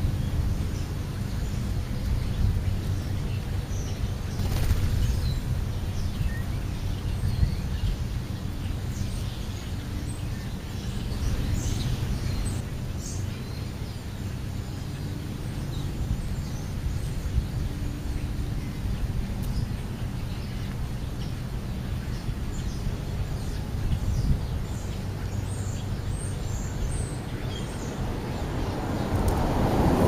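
Steady low outdoor rumble with scattered short bird chirps, mostly in the first half and again later on; a louder rush of noise swells near the end.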